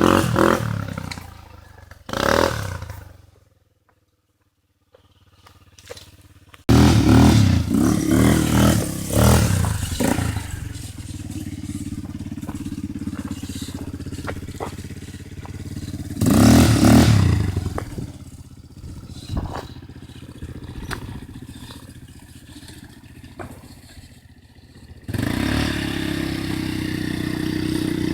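ATV (quad bike) engine running and revving up in several short surges, with steadier running between them. It drops out briefly a few seconds in.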